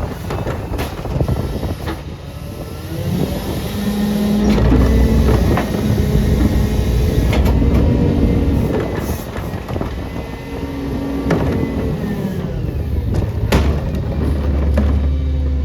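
CNG Peterbilt garbage truck with a Leach body, its engine speed rising, holding and dropping back about three times, with sharp metallic clanks and bangs throughout.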